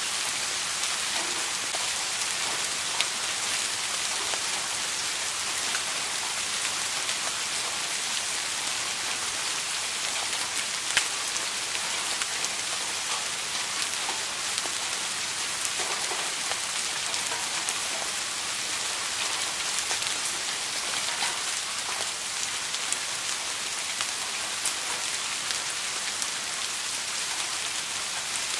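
Steady rain falling, an even hiss with individual drops ticking through it and a few louder drops now and then.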